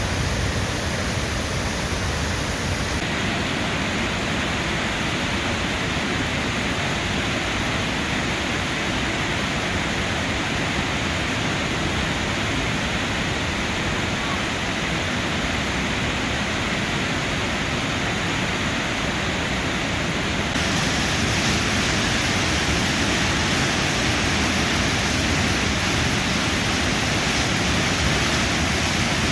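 Štrbački buk, a large waterfall on the Una river, rushing steadily: a continuous roar of falling water. It grows a little louder and hissier about two-thirds of the way through.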